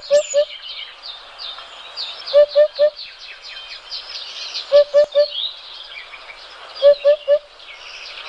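Birdsong: a dense chorus of high chirps and trills from many small birds, with a louder low three-note hooting call repeated four times, about every two seconds.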